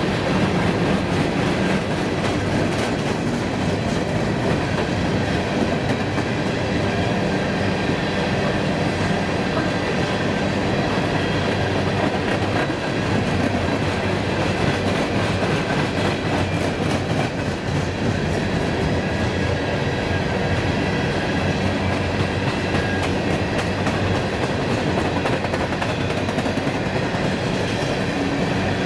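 Train rolling past on the track: a steady rumble of wheels on rail with a running clickety-clack of wheels over rail joints.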